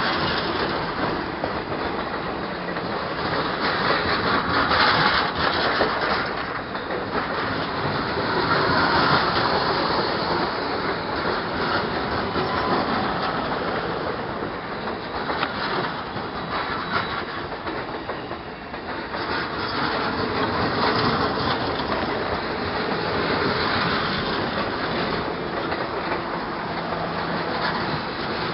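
Railroad cars rolling along the track, the wheels clattering steadily over the rails.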